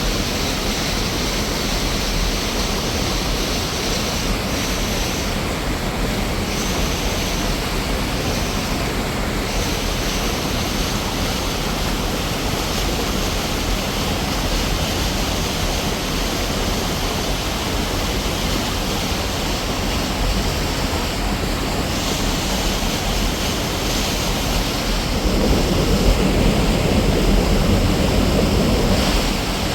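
Waterfall pouring: a steady, loud rush of falling water, growing fuller and louder for about four seconds near the end.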